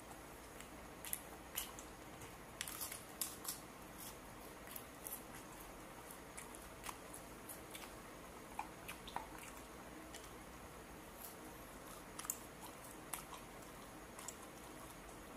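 Close-up eating sounds: chewing and lip-smacking of grilled barbecue and lettuce, heard as a string of soft, irregular clicks and small crunches.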